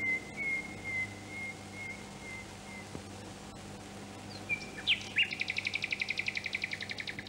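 A songbird calling: a few short sliding notes about halfway through, then a rapid, even trill lasting about two seconds. Before it, a thin, steady whistled tone wavers and fades out in the first three seconds.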